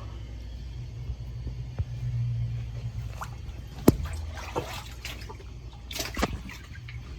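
Water trickling and splashing in plumbing over a low steady hum, with one sharp knock about four seconds in.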